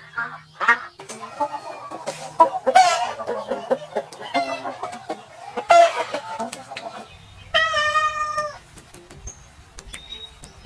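Chickens clucking and squawking, with a rooster crowing, in a run of short calls. About seven seconds in they give way to a single long, steady animal call about a second long.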